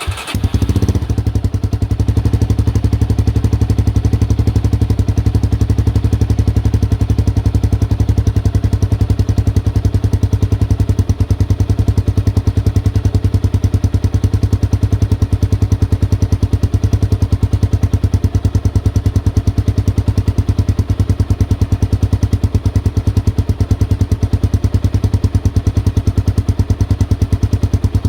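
Honda XR250 Motard's single-cylinder four-stroke engine idling steadily through a DELTA Barrel4 aftermarket muffler just after starting, with an even, rapid exhaust pulse.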